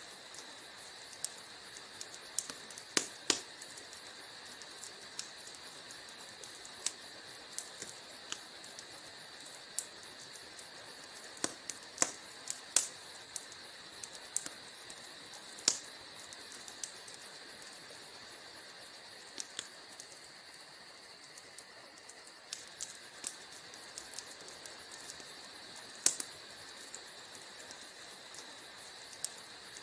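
Wood fire crackling in a fireplace: irregular sharp pops and snaps over a steady hiss, with a few louder pops scattered through.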